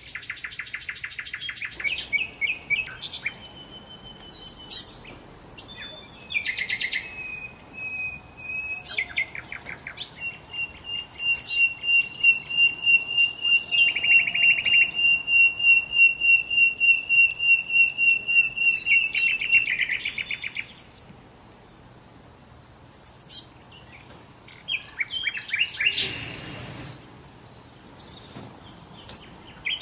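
Songbirds singing: a mix of chirps and short trills, with one long, rapid, even trill lasting about ten seconds in the middle. A faint steady high tone runs underneath, and a brief rushing noise comes near the end.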